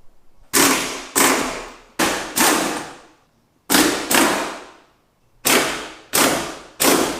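Impact wrench run in short, repeated trigger bursts, loosening the bolts of a Jeep's spare tire bracket: about eight bursts, each starting sharply and fading over half a second, mostly in pairs.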